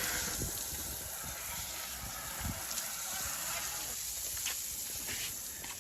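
Steady hiss of water spraying onto a car during washing.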